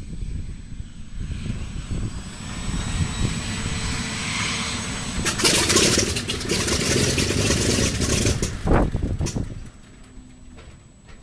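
Douglas A-26B Invader's right-hand Pratt & Whitney R-2800 radial engine starting, firing unevenly in rough pops, then a loud rushing burst for about three seconds before the sound falls much quieter near the end.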